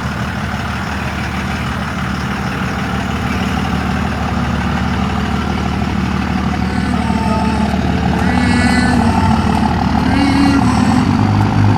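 Pickup truck engine idling steadily, its sound growing gradually louder, with faint voices in the background.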